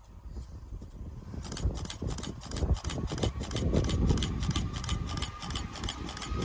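Merseyrail electric train passing over the level crossing, its wheels clattering over the rail joints in a rapid even rhythm over a low rumble. The clatter starts about a second and a half in and grows louder.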